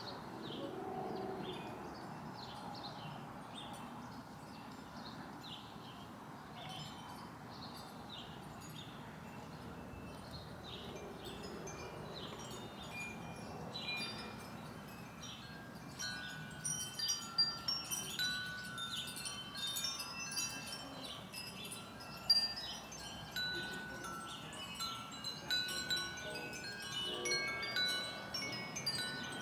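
Wind chimes ringing, several fixed pitches struck and left to ring. They become busier and louder about halfway through. Before that, short high chirps repeat.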